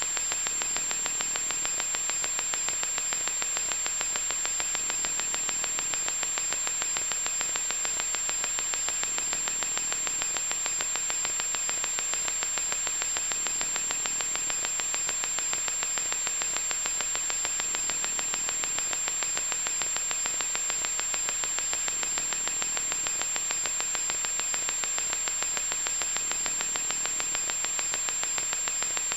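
Loud electronic static: a steady hiss with a fine rapid crackle, with a constant high-pitched whistle over it.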